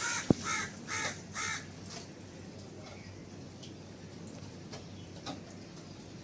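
A crow cawing four times in quick succession, about two caws a second, with a sharp click just after the first caw. Then only faint background hiss with a few light ticks.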